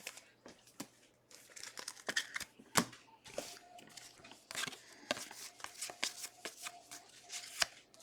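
Trading card packs and cards being handled: soft, scattered rustling of foil pack wrappers with light clicks and slides of cards.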